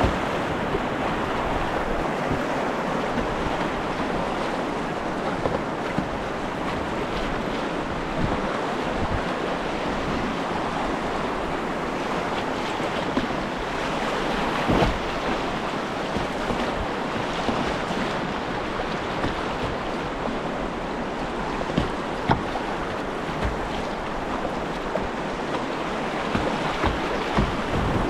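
River whitewater rushing steadily around a kayak, with a few short sharp knocks or splashes about halfway through and near the end.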